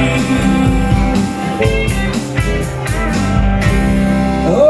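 Live rock band playing, electric guitar over bass and drums, in the instrumental closing bars of a song.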